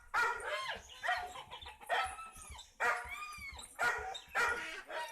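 Dog barking repeatedly, about once a second.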